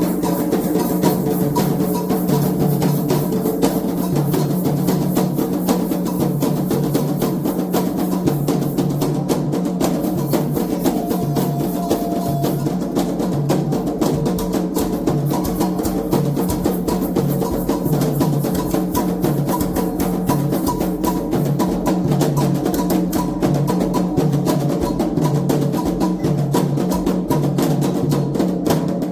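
Candomblé toque: atabaque hand drums playing a fast, steady rhythm, with sharp struck hits from a bell over them.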